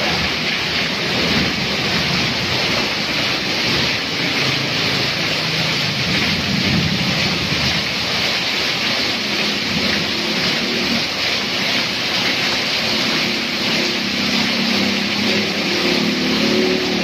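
Heavy rain falling steadily on a road and pouring off an awning edge. A small pickup truck splashes through the standing water at the start, and an engine hum comes in near the end.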